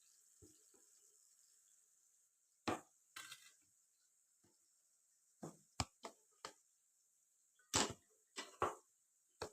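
Kitchen utensils knocking and clattering: about ten irregular, sharp knocks, a couple of them louder.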